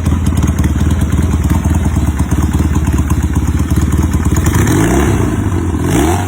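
Motorcycle V-twin engine idling with a lumpy beat, then revved up about four and a half seconds in, its pitch rising before the sound cuts off.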